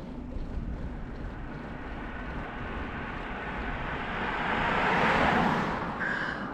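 Wind and road rumble on a moving bicycle's microphone, with a vehicle passing close by: its noise swells to a peak about five seconds in and fades quickly.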